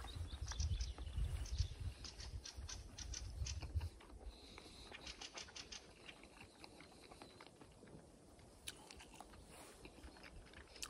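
A person chewing food with the mouth closed, with many small wet mouth clicks. A low rumble sits under the first four seconds, then only fainter chewing clicks remain.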